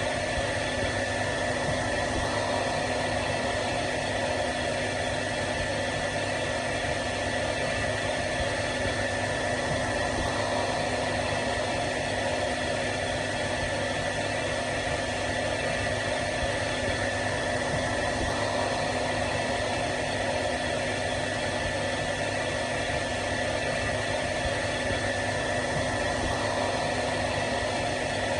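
Hair dryer running steadily on one setting: an even rushing of air over a constant motor hum with a steady high whine.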